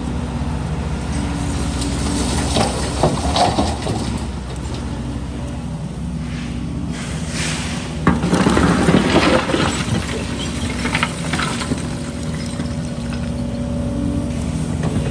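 Excavator's diesel engine running steadily, with bouts of clattering and scraping as concrete debris is worked: a shorter bout about two and a half seconds in and a louder one about eight seconds in.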